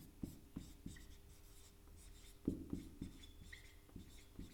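Faint, irregular scratching strokes of handwriting or drawing, over a faint steady hum.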